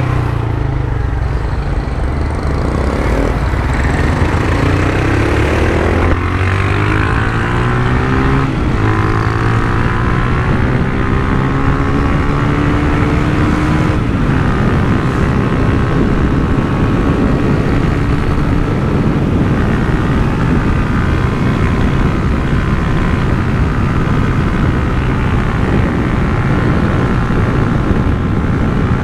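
Honda CG Titan 150's single-cylinder four-stroke engine running through an aftermarket Turuna exhaust while riding. Its pitch climbs in several pulls through the gears, each ending in a short drop, then holds at a steady cruise over the second half.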